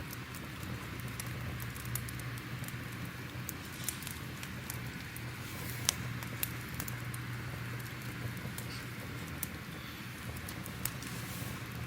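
Crackling fire: irregular sharp pops and snaps over a steady low rumble and hiss.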